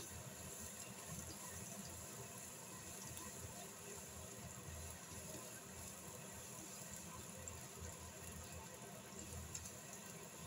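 Diced carrots frying in oil in a nonstick pan: a faint, steady sizzle.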